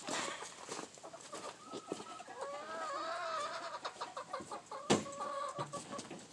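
Wavering animal calls rising and falling in pitch for a few seconds, with one sharp knock about five seconds in.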